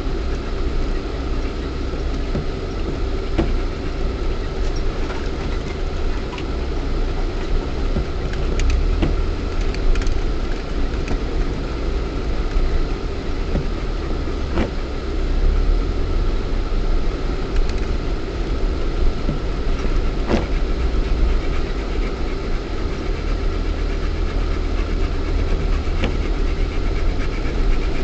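Lada Niva 4x4's 1.7-litre four-cylinder petrol engine running as the car is driven off road, heard from inside the cabin as a steady low drone. Scattered knocks and rattles come through now and then, the loudest about ten, fourteen and twenty seconds in.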